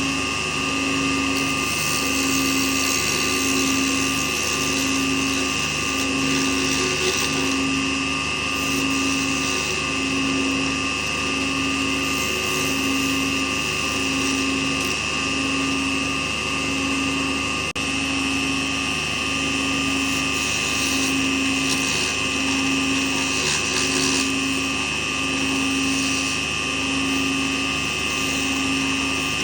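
Small lathe's electric motor running steadily, with a constant high whine and a low hum that pulses about every second and a half.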